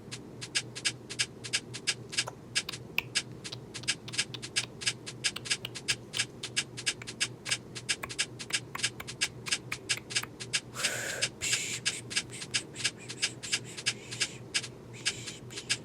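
Rapid, evenly spaced clicks, about three or four a second, over a low steady hum, with a brief hiss about eleven seconds in.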